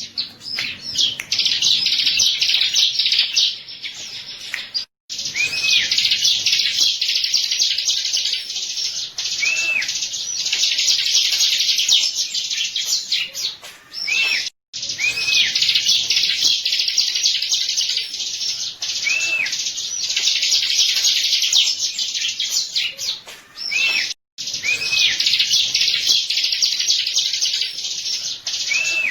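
Bar-winged prinia (ciblek) song: a dense, fast, high chattering with repeated short arched whistle notes. It cuts out briefly and starts again about every ten seconds, as a looped lure recording does.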